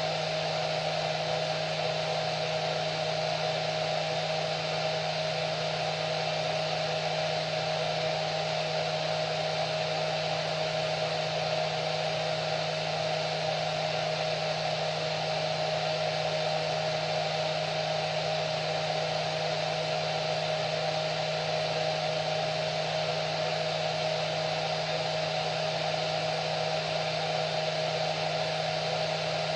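Hair dryer running continuously: a steady airy rush with an even motor whine that does not change.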